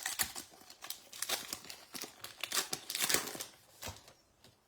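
A trading-card pack wrapper crinkling and tearing as it is opened by hand, loudest near the start and again around three seconds in.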